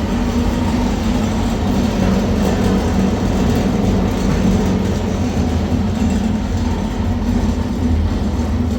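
A machine running steadily: a loud, even rumble with a low hum that does not change.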